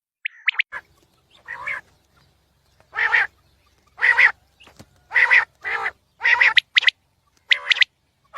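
Quail calling. There are a few short, high notes that slide quickly in pitch near the start and again near the end, and between them a run of about seven harsher, longer calls, roughly one a second.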